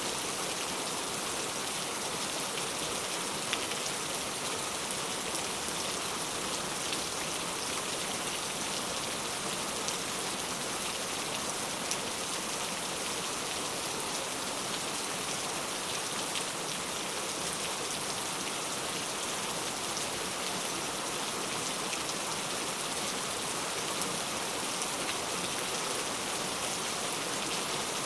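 Steady rain falling, an even hiss of many drops with a few sharper drop ticks scattered through it.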